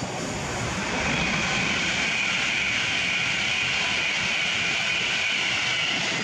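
Avanti West Coast express train passing through at speed: a steady rushing noise that comes up about a second in and holds until near the end.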